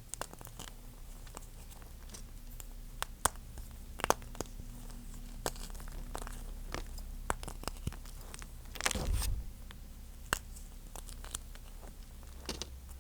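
Chalk egg being crushed and crumbled, giving scattered sharp cracks and crunches, with a longer, louder crunch about nine seconds in.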